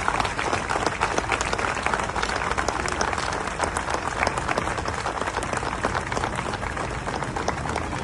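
A crowd applauding steadily, many hands clapping at once in a prolonged applause of tribute.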